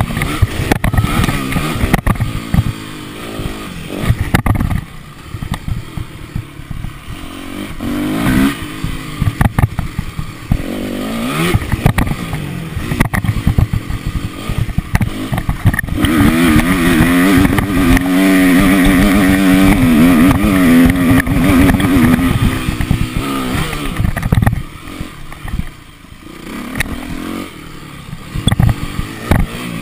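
A motocross motorcycle's engine revving and dropping off as it rides, its pitch rising and falling with the throttle. It holds one long high rev from just past halfway for about seven seconds, with many short knocks and rattles throughout.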